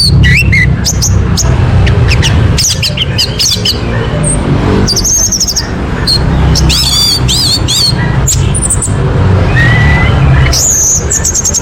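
Orange-headed thrush (anis merah) singing: a run of short, varied phrases of quick warbles, chirps and high whistles with short gaps between them, over a steady low rumble.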